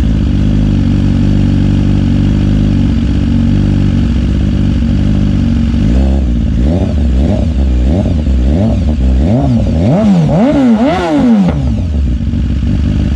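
2017 BMW S1000RR's inline-four engine, cold-started through a de-cat Austin Racing GP3 exhaust, idling steadily, then revved in a quick series of about nine short throttle blips that get bigger toward the end before it settles back to idle.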